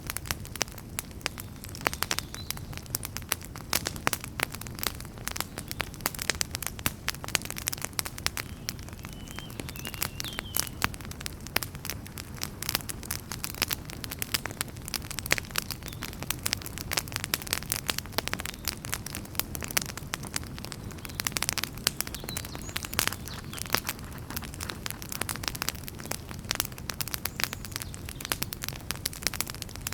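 Wood fire in a fireplace crackling steadily, with many irregular sharp snaps and pops over a low, even rumble of burning logs.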